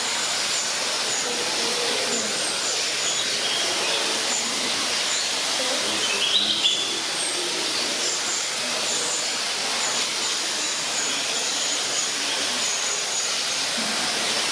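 Small birds giving many short, high chirps over a steady hiss, with a louder burst of chirps about halfway through.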